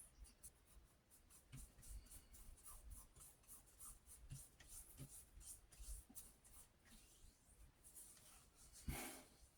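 Faint rubbing of fingertips spreading balm over freshly shaved skin: a quick, irregular run of light strokes, with one slightly louder stroke near the end.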